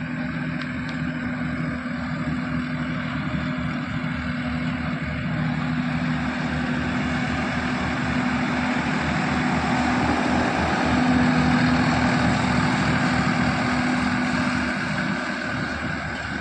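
Swaraj 969 FE 4x4 tractor's diesel engine running steadily. It grows louder toward the middle and eases off near the end.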